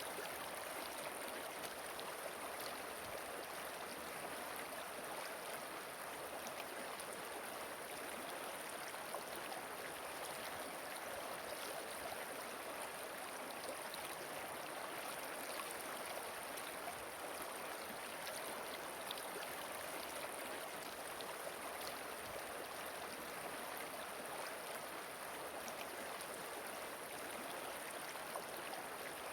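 Flowing river water: a steady, even rush of running water that doesn't change.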